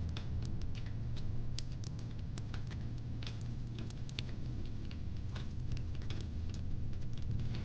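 Wood fire in a fire pit crackling: irregular sharp pops and snaps, several a second, over a steady low rumble.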